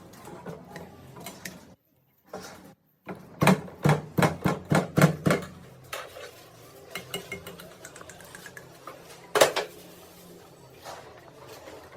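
Metal parts and tools clinking and knocking against each other on a bench. A quick run of about eight sharp metal taps comes a few seconds in, with lighter clinks afterwards and one loud knock near the end.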